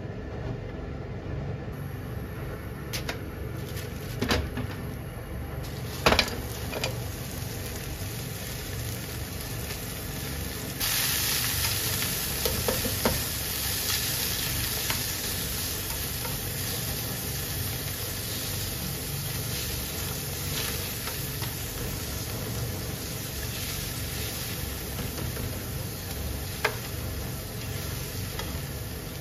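Sliced onion sizzling in hot oil in a frying pan while it is stirred with tongs. The sizzle starts suddenly about eleven seconds in, when the onion hits the oil, after a few sharp clicks.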